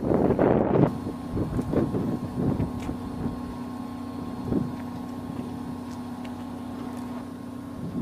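A vehicle running with a steady hum, with a louder rushing rumble in the first second and scattered knocks.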